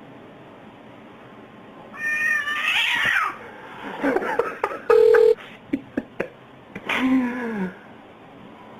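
Domestic cat meowing: a wavering meow about two seconds in and a lower, falling meow near the end. A short steady tone sounds midway between them and is the loudest thing in the stretch, with a few small clicks around it.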